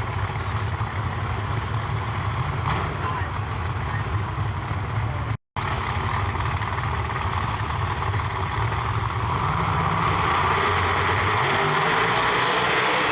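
Drag race car engines running loudly with a heavy low rumble, cut off sharply for an instant about halfway through. In the last few seconds the engine noise swells louder and brighter.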